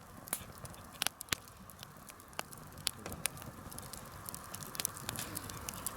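Wood fire crackling, with irregular sharp pops of burning wood.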